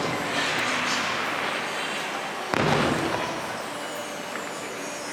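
Fireworks bursting. The booming tail of one shell fades away, then a second shell bursts about two and a half seconds in and rumbles away.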